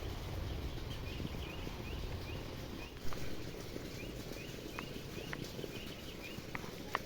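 Small birds chirping in short repeated calls over a steady low rumble, with a single thump about three seconds in and a few sharp clicks near the end.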